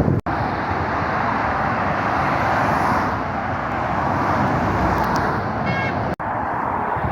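Steady road traffic noise from passing vehicles on a busy main road, the rush of tyres and engines running continuously. The sound cuts out for an instant twice, once near the start and once about six seconds in.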